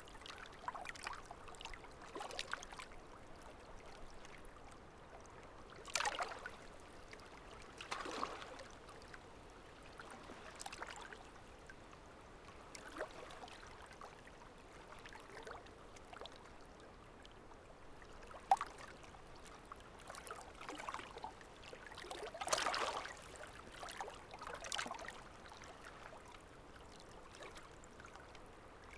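Running water: a small stream trickling and gurgling, with irregular louder splashes every few seconds and one sharp click about two-thirds of the way through.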